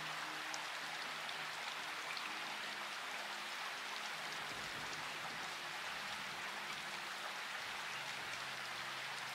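Steady rain falling, an even hiss with a few faint drop ticks. Soft held low music notes sit quietly beneath it, changing every second or so.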